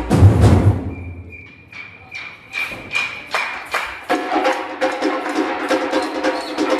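Batucada samba percussion playing: the full drumming breaks off about a second in, leaving sparse sharp strikes on small percussion that come closer together, and about four seconds in a steady held tone joins under quick, even strikes.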